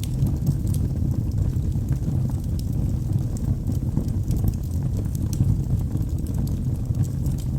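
Logs burning in a fireplace: a steady low rumble of the flames with scattered small crackles throughout.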